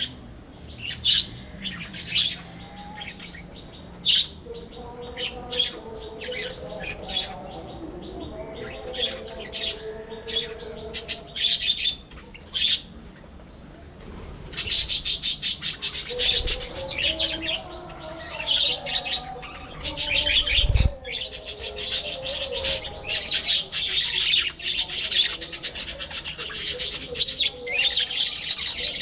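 A flock of budgerigars chirping and warbling. The chirps are scattered at first, then turn into dense, continuous chatter from about halfway through.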